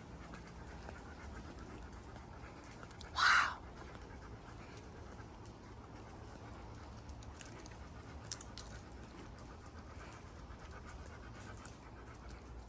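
Golden retriever panting steadily, with one short, loud, hissing burst a little over three seconds in.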